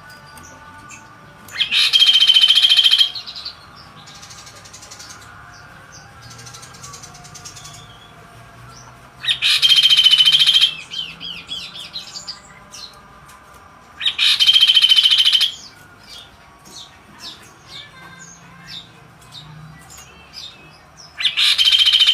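A kaso-kaso songbird singing loud, rapid, buzzy trilling phrases, each about a second and a half long, four times with pauses of several seconds between, and soft chirps in the gaps.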